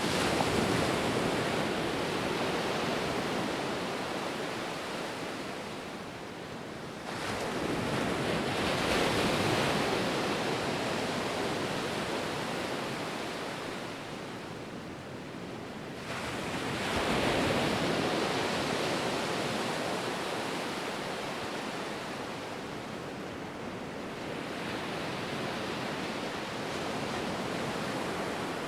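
Ocean surf: waves breaking about every eight seconds, each a sudden rush of noise that slowly washes away, four in all with the last one gentler.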